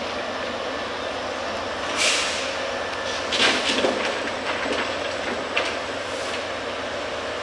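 Slow-moving maintenance-of-way train rolling by with a steady rumble of wheels on rail, broken by a few sharp clanks: one about two seconds in, a quick cluster between three and four seconds in, and another a little later.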